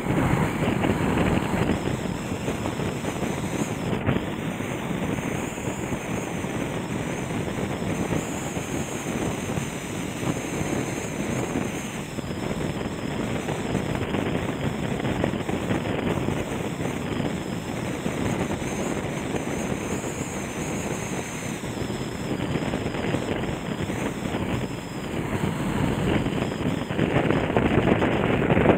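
Swollen river in flood, its fast floodwater rushing in a steady, even roar that gets louder near the end.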